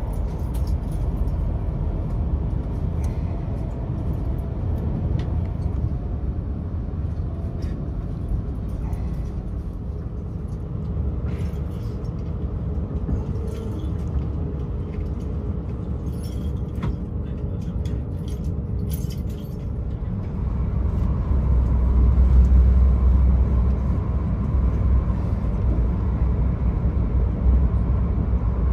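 Cabin running noise of a VR Pendolino Sm3 tilting train at speed: a steady low rumble of wheels on rail with scattered clicks and rattles. The rumble grows louder about 20 seconds in.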